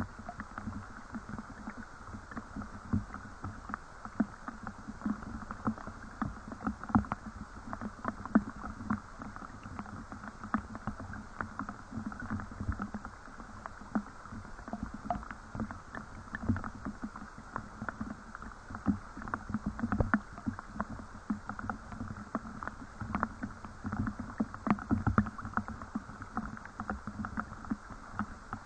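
Rain: a steady patter of drops, with many irregular louder drips and splashes.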